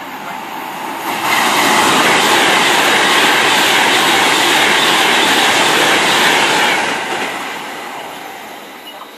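A train passing through at speed without stopping: a rush of wheel and air noise that builds, holds loud for about five seconds, then fades away.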